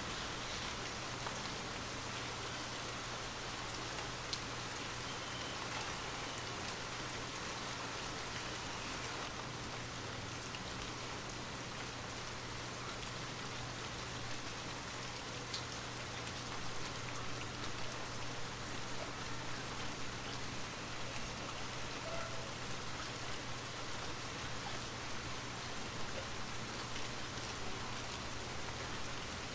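Steady rain falling: an even hiss of rain on a surface with scattered drop ticks, over a low steady hum.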